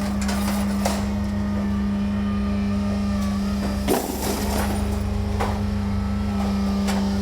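A motor vehicle running with a steady hum and low rumble, with a few knocks and rattles, the loudest about four seconds in.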